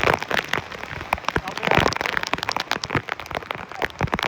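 Heavy thunderstorm rain, with big drops striking close by in a dense, irregular patter of sharp taps over a steady hiss.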